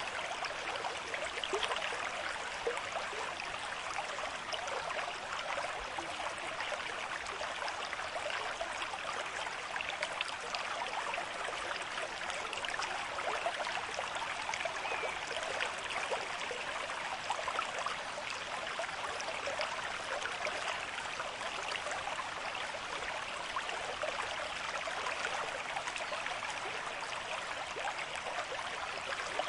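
River stream with moderate flow: water running and splashing steadily over stones, an even rushing noise without pauses.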